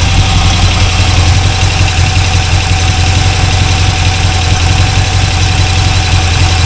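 Chevrolet 350 small-block V8 idling steadily after a rebuild, with no rod knock. A thin steady whine sits over the idle.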